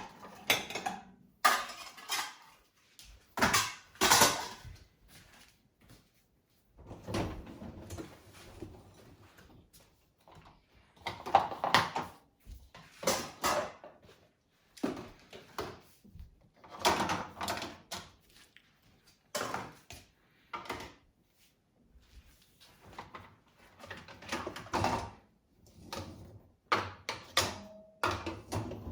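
Crockery plates and bowls clinking and clattering against each other as they are lifted out of a dishwasher and stacked away, in an irregular string of knocks, with occasional heavier bumps among them.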